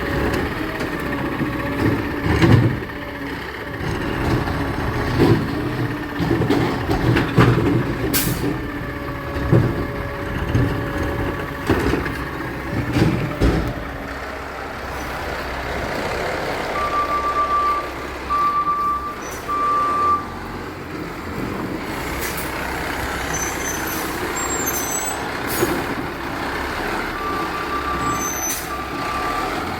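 Garbage truck's diesel engine running while a series of knocks and clunks sound through the first half. Later the truck's backup alarm beeps in two runs of three.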